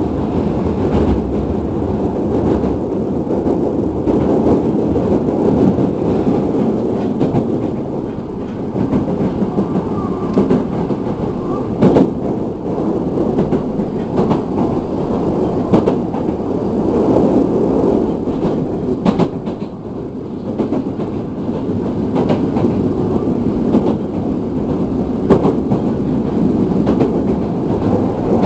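Hankyu electric train running at speed: a steady rumble of wheels on the rails, with a few sharp clacks now and then.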